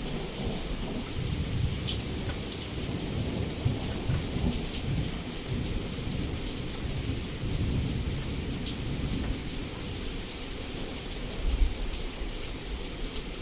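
Heavy rain pouring steadily against a window, with low rolling thunder rumbling throughout and one louder surge of thunder near the end.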